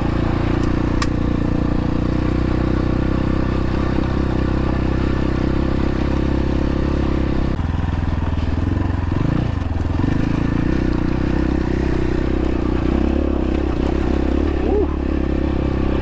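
X-Pro Templar X 250 dirt bike engine running steadily under way off-road. Its note changes pitch about halfway through.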